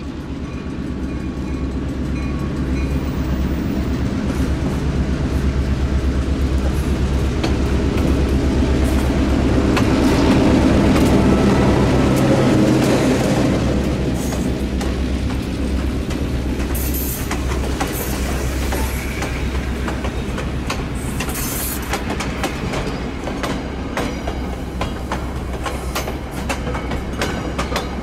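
Diesel locomotive passing close by, its engine rumble loudest about ten to thirteen seconds in. Passenger coaches follow, their wheels clicking over rail joints, with a few brief high wheel squeals.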